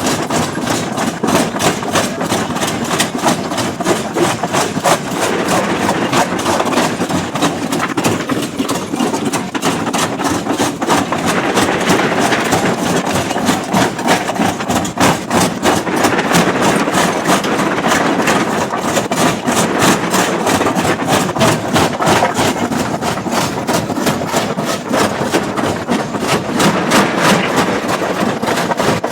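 Heavy stone-crushing machinery: an engine running steadily under rapid, evenly repeated impacts, about three to four a second, as rock is broken.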